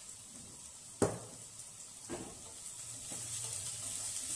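Chopped onion and garlic sizzling in hot olive oil in a stainless steel pot while being stirred with a spatula, with a sharp knock about a second in. The sizzle grows louder near the end.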